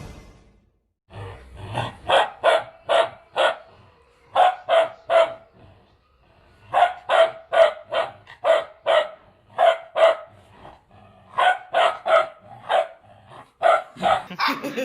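Two-month-old Bhotey puppy barking in bouts of short, high-pitched barks, about three a second, with brief pauses between bouts.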